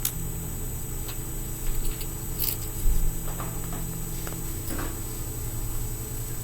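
Scattered small clicks and rustles of tiny fingerboard parts (trucks, wheels, spacers and a skate tool) being handled and fitted, over a steady low hum.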